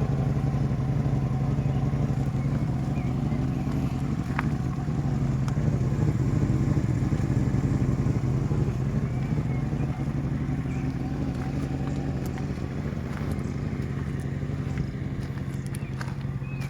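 1996 Lincoln Continental's 4.6-litre V8 running steadily at an unchanging speed, a deep even hum.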